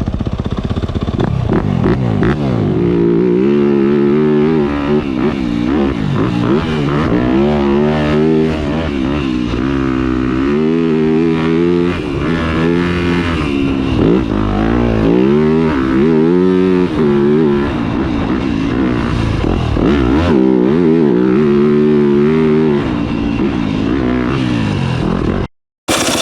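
2021 Yamaha YZ250F's 250cc four-stroke single-cylinder engine through a Yoshimura RS-12 full exhaust system, revving up and dropping back again and again. It is loud throughout, and cuts out abruptly for a moment near the end.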